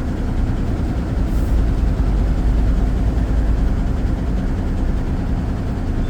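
Lorry engine running steadily, a continuous deep rumble that grows a little heavier about a second and a half in.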